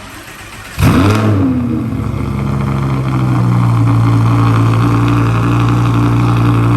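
Audi R8 V10 Plus's 5.2-litre V10 starting through a newly fitted Quicksilver aftermarket exhaust. It catches about a second in with a sudden loud flare of revs that falls away, then settles into a steady idle.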